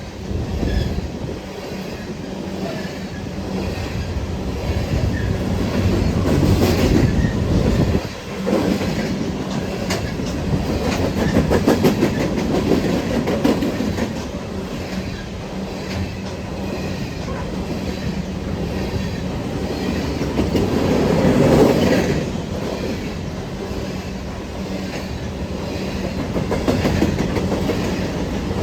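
A CN empty coal train's cars rolling past, the wheels clattering steadily over the rail joints, the loudness swelling and easing as the cars go by.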